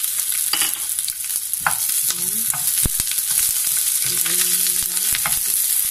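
Onion wedges and ginger slices sizzling steadily in hot oil in a nonstick frying pan, stirred with a spatula, with a few sharp knocks of the spatula against the pan.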